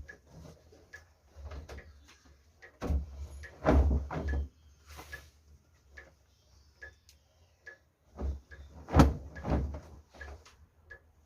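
Kitchen clatter: irregular knocks and clunks of dishes, pots and cupboard doors being handled, loudest about four seconds in and again about nine seconds in. A faint tick repeats about once a second underneath.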